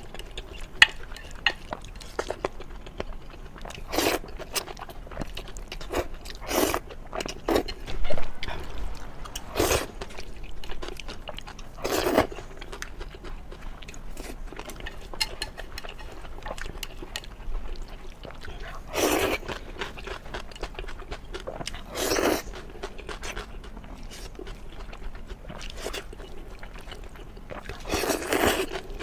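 A person eating close to the microphone: steady chewing with loud bites every few seconds.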